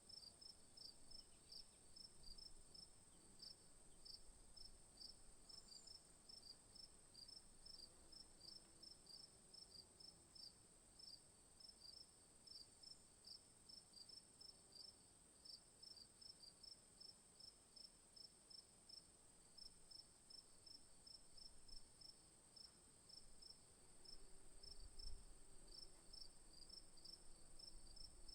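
Faint insects chirping: a steady high-pitched drone under a regular, rapid train of short high chirps that repeats several times a second.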